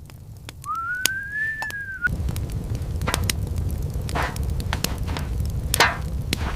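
One whistled note sliding up, then levelling off, for about a second and a half, cut off abruptly. After that, steady low wind rumble with scattered sharp clicks and two brief rushing swishes.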